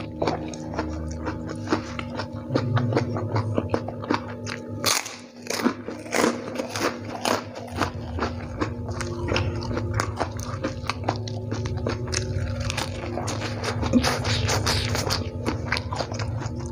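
A mouthful of fried instant noodles and raw bean sprouts chewed close to the microphone: a dense, irregular run of wet clicks and small crunches. A steady low hum runs underneath.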